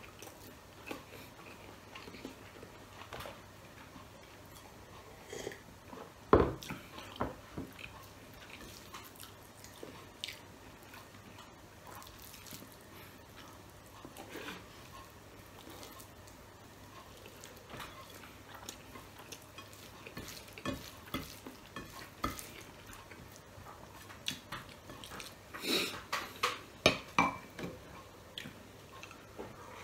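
Close-miked chewing and mouth smacks of a man eating rice and sausage with his hands, with scattered small clicks. A single sharper knock about six seconds in is the loudest sound, and a quick run of clinks and clacks of dishes comes near the end.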